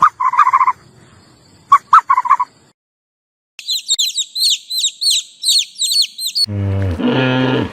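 Bird calls: a short call at the start and a few more around two seconds in, then about three seconds of fast, high-pitched chirping. A deep, low animal call with many overtones cuts in near the end.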